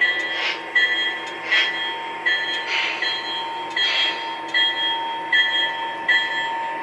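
Model locomotive's sound decoder ringing the engine bell, about one ding every three-quarters of a second, over a steady running hum with soft hissing swells.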